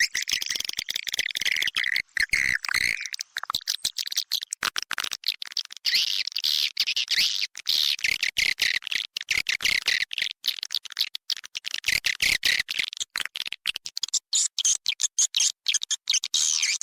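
Swiftlet call recording: a dense, unbroken chatter of rapid, high twittering chirps, the kind of walet calling track used to lure swiftlets to a nesting house.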